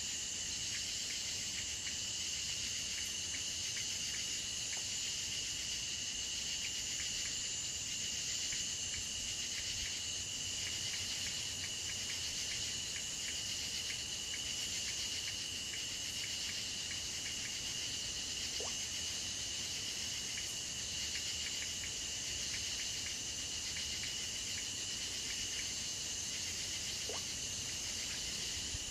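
Steady chorus of insects: a continuous high, shrill buzz that holds even throughout, with a few faint ticks.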